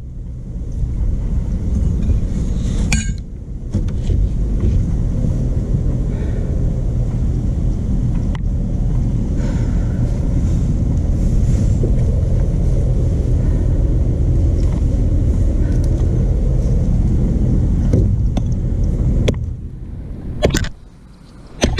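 Stump grinder's 13 HP Honda engine running steadily with a low rumble, with scattered light clicks. The rumble drops away near the end.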